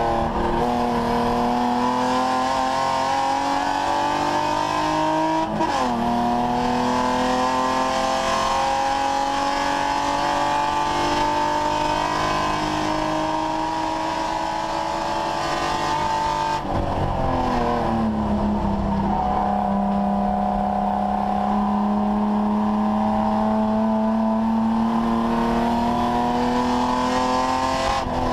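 BMW 3 Series race car's engine heard from inside the stripped cockpit, pulling hard with revs climbing steadily. About five and a half seconds in the revs drop sharply at a gear change. About two-thirds of the way through they fall away over a second or two, then rise slowly again.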